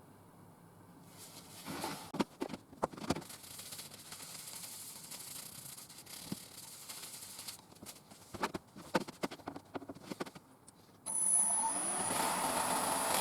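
Scattered light knocks and rubbing sounds of work at a wood lathe, then, about eleven seconds in, a lathe's steady running noise with a high whine comes in suddenly.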